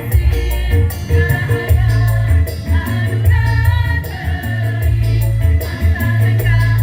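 A women's choir singing together over instrumental accompaniment, with a strong moving bass line and a steady ticking percussion beat.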